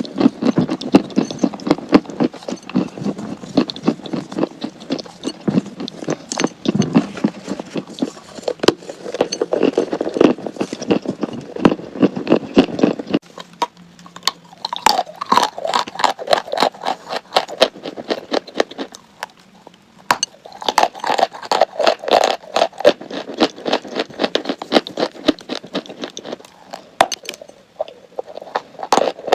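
Chalk being bitten and chewed: dense, quick crunching cracks. The crunches are lower-pitched in the first half and turn brighter and crisper after about halfway, with a brief lull.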